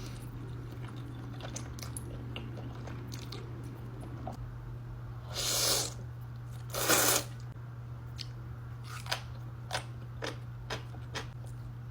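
Two loud slurps of Korean noodles about halfway through, each about half a second long, followed by a run of short wet chewing and lip-smacking clicks.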